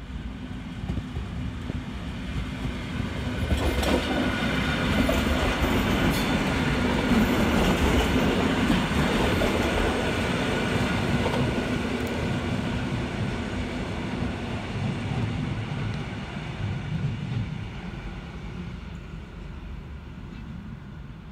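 EN57AL electric multiple unit passing close by on the rails. The noise of its wheels and running gear grows as it approaches, is loudest as the cars go by about five to ten seconds in, then fades steadily as it pulls away.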